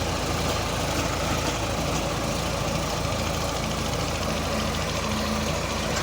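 Sonalika tractor's diesel engine running steadily at an even speed, with no revving.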